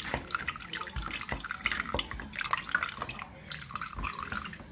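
Water running and dripping with many small irregular splashes, from a leak that is flooding the house.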